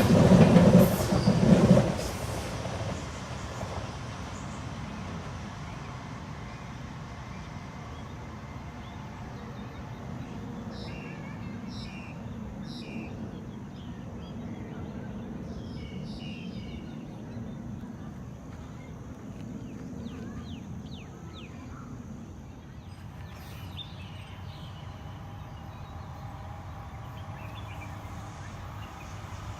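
MTR Disneyland Resort Line M-Train passing close by for about the first two seconds. Its running and wheel noise then drops away to a steady low rumble as it moves off.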